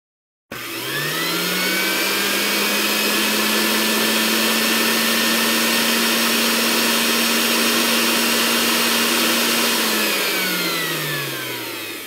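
Electric blender motor starting about half a second in, its pitch rising quickly to a steady whir. It runs at constant speed, then winds down with falling pitch over the last two seconds.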